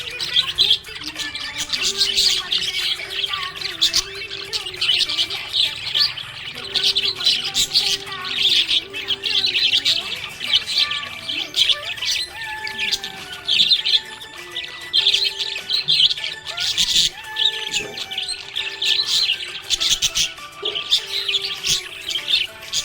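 Budgerigars chirping continuously: many quick, high chirps overlapping, without a break.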